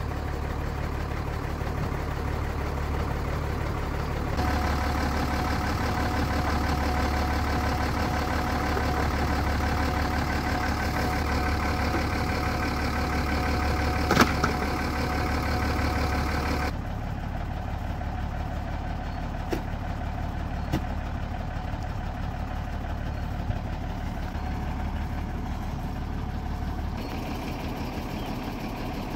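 Vehicle engine running steadily, its note changing abruptly twice, with a brief sharp squeak about fourteen seconds in.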